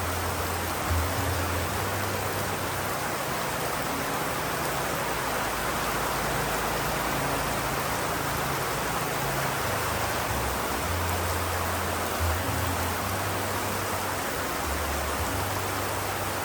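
Steady rain, an even hiss without pauses, with a low, deep hum underneath that shifts pitch and drops in and out every few seconds.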